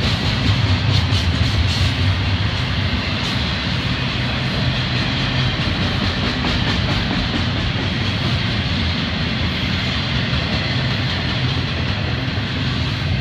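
Freight train of double-stack container well cars rolling past: a steady rumble of steel wheels on rail, with a few sharp clicks in the first three seconds.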